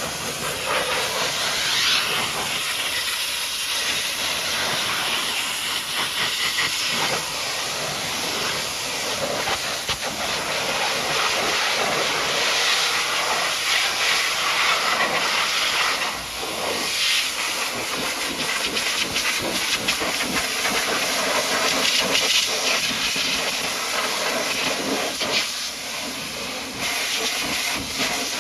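High-pressure washer jet spraying water onto a mud-caked dump truck: a steady loud hiss that swells and eases as the spray moves, with a brief dip about halfway through.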